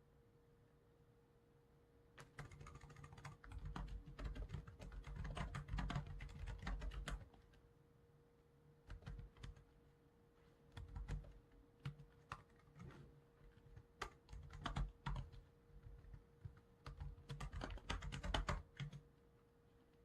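Computer keyboard typing in bursts: a long run starting about two seconds in, then shorter spurts with pauses between. A faint steady hum runs underneath.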